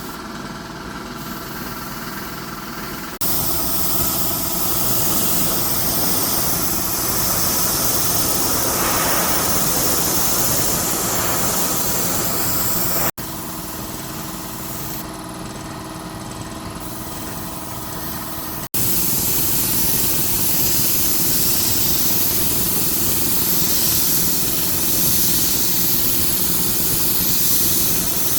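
Workshop machinery running: a steady motor hum with a few steady tones, cut sharply about three seconds in to a louder, even hiss; the hum returns briefly in the middle and the hiss comes back.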